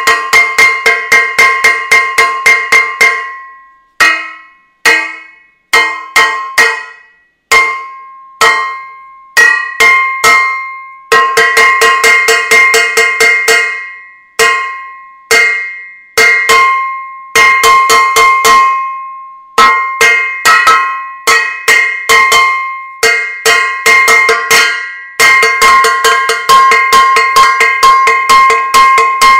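A metal saucepan being struck over and over, each hit a ringing metallic clang. The hits come in quick runs of several strikes a second, broken by pauses of about a second.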